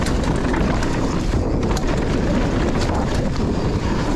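Mountain bike descending a loose dirt downhill trail, heard through a GoPro: wind buffeting the microphone over the rumble of tyres on dirt, with many quick rattles and knocks from the bike over rough ground.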